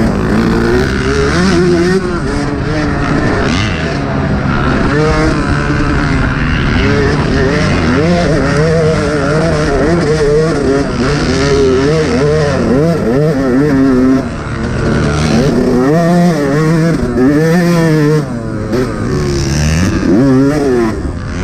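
Yamaha YZ125 two-stroke single-cylinder motocross engine revving hard. Its pitch rises and falls over and over as the throttle is opened and shut, with brief dips about two-thirds of the way in and again a few seconds later.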